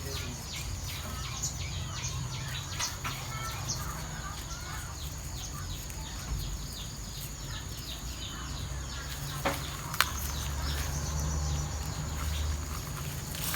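Many short bird chirps over a steady high insect drone and a low rumble, with two sharp clicks about nine and a half and ten seconds in.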